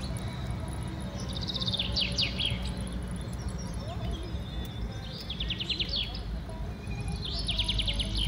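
A bird singing fast, falling trills, each burst lasting about a second and coming back every three to four seconds, over a steady low rumble of car road noise.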